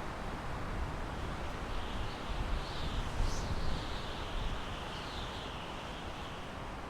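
Steady wind rushing through pine trees, with a low rumble beneath. A faint, high, wavering chirping comes and goes in the middle.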